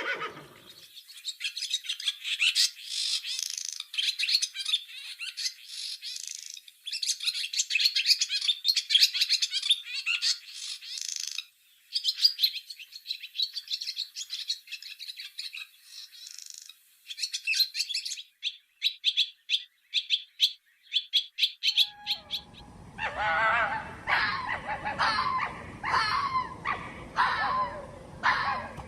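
Swallows twittering: dense, busy chirping that ends in quick runs of short clicks, about four a second. About 22 seconds in it changes to a fox, giving repeated high whining yips about once a second.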